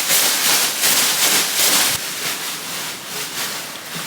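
A steady hiss, louder in the first two seconds and a little softer after.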